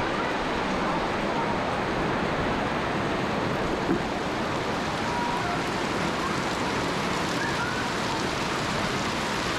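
Heavy rain falling steadily, a dense even hiss, with one brief knock about four seconds in.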